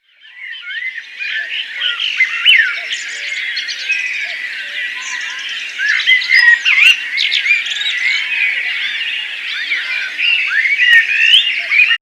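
A dense chorus of many small birds chirping and whistling over one another. It fades in at the start and cuts off suddenly at the end.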